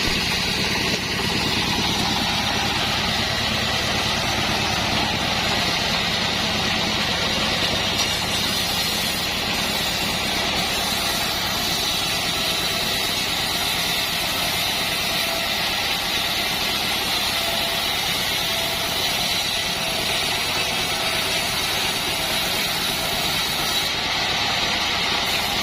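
An assembled band sawmill running steadily, its engine and drive making a constant, unchanging drone.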